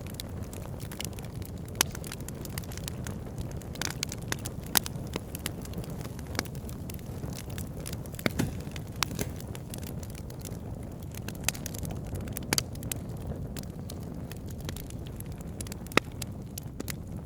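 Wood campfire crackling, with frequent sharp snaps and pops at irregular moments over a steady low rumble.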